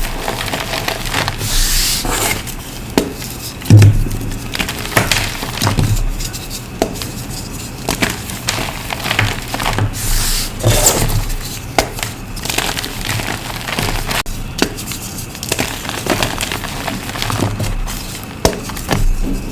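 Reformed gym chalk blocks being crushed, an irregular run of dry crunches and crackles with scattered sharper snaps, the loudest about four seconds in.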